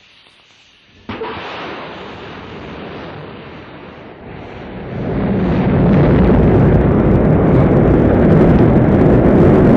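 Rocket engines igniting at launch: a sudden onset about a second in, then a deep, dense rumbling roar that grows much louder from about five seconds in.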